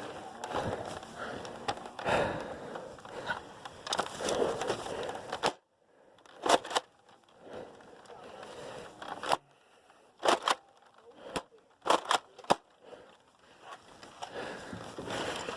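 Rustling handling noise, then a few sharp separate clicks and knocks, typical of a Nerf blaster being handled, primed and fired.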